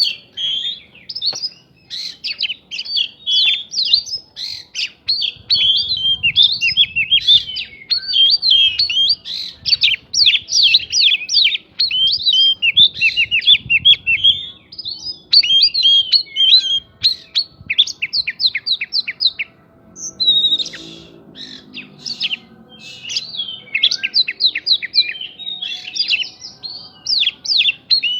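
Oriental magpie-robin (kacer) singing a fast, unbroken stream of sharp chirps and whistles, its song filled with mimicked prinia (prinjak) phrases, with a brief pause a little after two-thirds of the way through.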